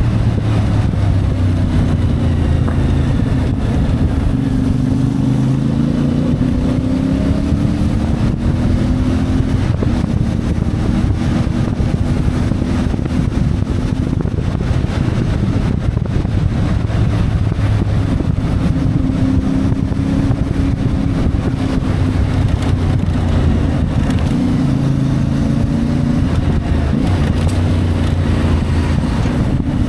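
CFMoto 450MT parallel-twin motorcycle engine running under way, its note rising and falling with the throttle through the ride, with wind buffeting the microphone.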